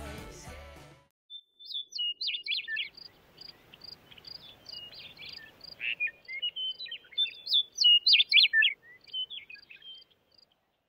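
Music fades out within the first second, then a songbird sings a long run of quick high chirps and short whistles that stops shortly before the end.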